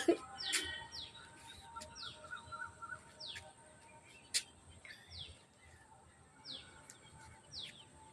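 Faint bird chirps: short falling chirps repeating about once a second, over a light background hiss. A few sharp clicks come in between, the loudest about four seconds in.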